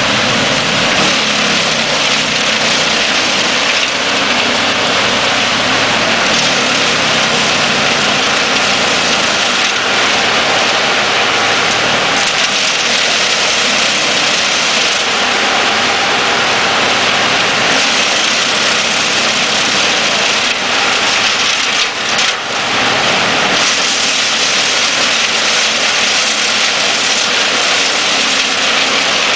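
Erjo 9/93 wood chipper and diesel forestry machines running steadily together, a loud continuous mechanical noise with no clear pitch and a short dip about 22 seconds in.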